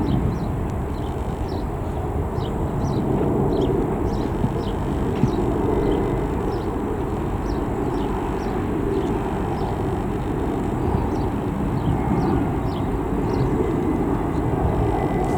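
Steady low rumble of a distant Airbus A319 jet airliner, rising and falling slightly, with small birds chirping short falling notes throughout.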